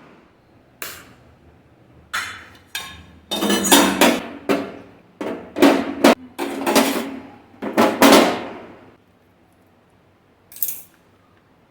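A run of knocks and clatters of hard objects being handled and set down, about a dozen in eight seconds, then one more short knock near the end.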